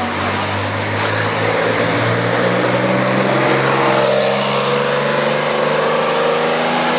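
Porsche rally car's engine running steadily close by, its pitch lifting slightly about halfway through.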